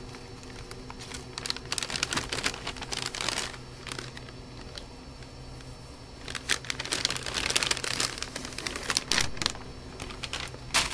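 A cat licking a thin plastic bag, the plastic crinkling and crackling rapidly under its tongue in two long stretches, from about a second in and again from about six seconds in.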